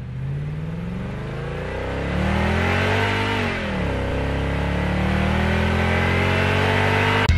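Car engine accelerating. The engine note climbs, drops briefly a little over three seconds in as it shifts up a gear, then climbs again more slowly and grows louder.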